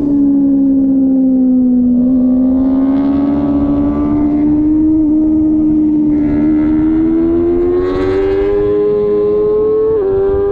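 Racing superbike engine held at high revs: one continuous note that sags slightly, then climbs steadily as the bike accelerates, with a brief break about ten seconds in, typical of a gear change.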